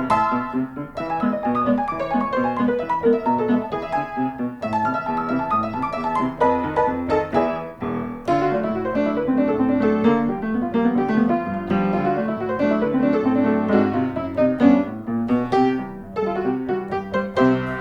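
Background piano music with quick, steady notes.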